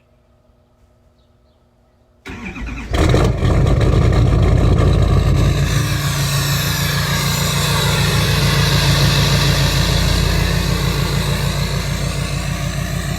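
LML Duramax 6.6-litre V8 turbodiesel cold-starting in about 30-degree weather: after about two seconds of quiet the starter cranks for under a second, the engine catches with a jump in loudness, and it then runs at a fast cold idle with a rapid pulsing knock, the level easing slowly as it settles.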